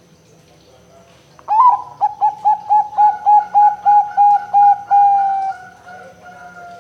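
Zebra dove (perkutut) cooing: starting about a second and a half in, a quick run of about a dozen short hooked notes, roughly four a second, ending in a longer drawn-out note that fades away.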